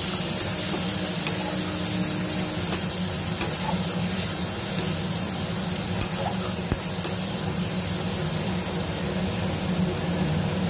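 Onions and tomatoes frying in oil in a kadai, sizzling steadily while a spatula stirs them through the pan.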